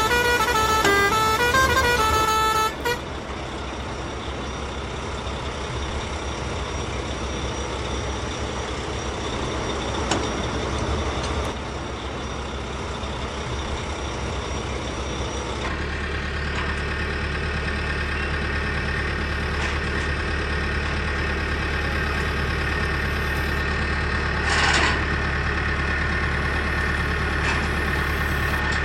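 A truck's musical horn plays a short stepped tune, then truck engine sound runs steadily. Partway through it settles into a low, even idling drone, with a short hiss near the end.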